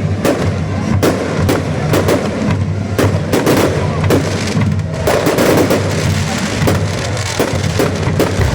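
Fireworks going off in a quick run of sharp bangs and crackles, several a second, over music playing underneath.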